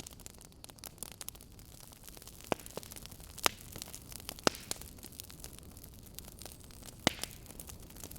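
Wood fire crackling: a steady soft hiss with frequent small snaps and several sharp, louder pops, the biggest about two and a half, three and a half, four and a half and seven seconds in.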